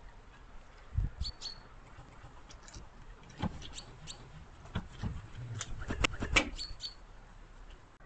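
Small birds chirping: short, high chirps in pairs about a second in and again near the end. Several dull knocks and thumps fall among them, the loudest a little after six seconds.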